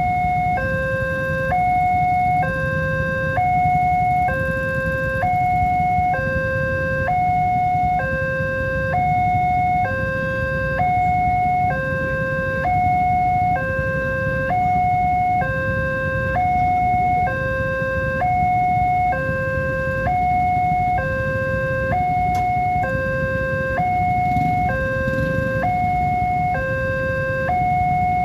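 Railway level-crossing warning alarm sounding a two-tone high-low electronic signal, about one high-low cycle a second, over a steady low rumble. The alarm signals that a train is approaching the crossing.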